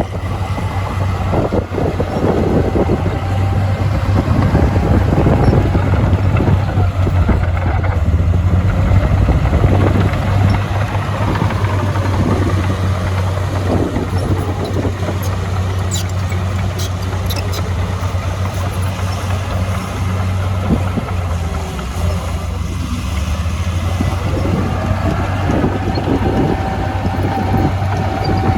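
Diesel engine of heavy earthmoving machinery running steadily with a low drone, and a few sharp clicks about halfway through.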